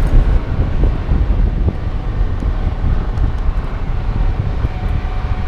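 A 2019 Ford Ranger pickup being driven: a steady low rumble of road and engine noise with wind buffeting the microphone.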